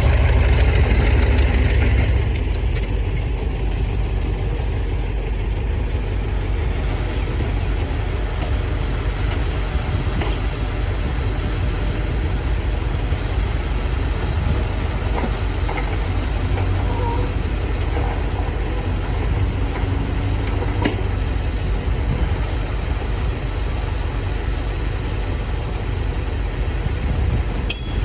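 Heavy diesel engine running steadily, a little louder for the first two seconds or so.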